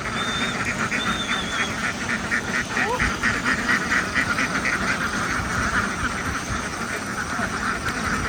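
A large flock of domestic ducks quacking continuously, many voices overlapping into a dense, steady din. A few short, high whistling notes come in the first couple of seconds.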